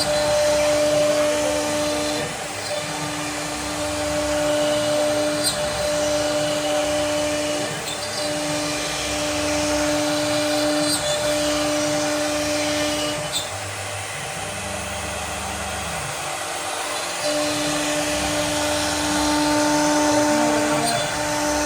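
CNC machine's cutting spindle running under load: a steady high whine that breaks off briefly every one to two seconds, over a rough noise of cutting.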